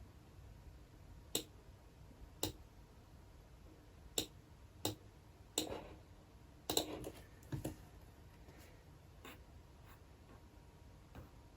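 Sparse, irregular clicks of computer keys or a mouse while working at a computer, with a quick run of several clicks a little past the middle and a few fainter ones near the end.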